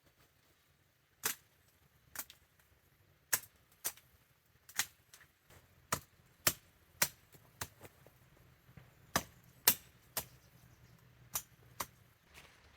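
A series of sharp knocks, about fifteen at irregular intervals a half-second to a second apart, each short and crisp.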